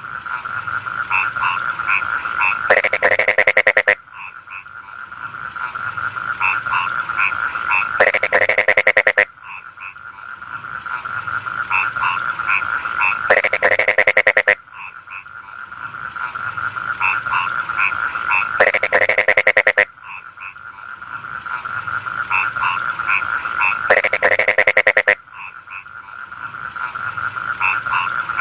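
Rice-field frogs calling: a loud, rapid pulsed call lasting about a second repeats roughly every five seconds over a steady background frog chorus and a high, even hum.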